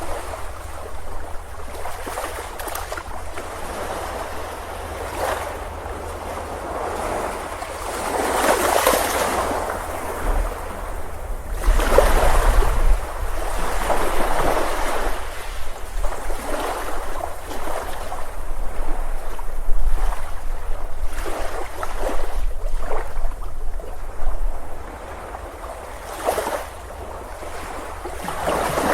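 Ocean surf breaking on a beach, the waves swelling and washing in several times, loudest in the middle and quieter near the end.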